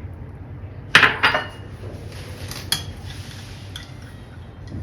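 A spoon clinks twice against a mixing bowl about a second in, then a soft scraping and a few lighter taps as a spoonful of yeast is tipped into the milk mixture and stirred.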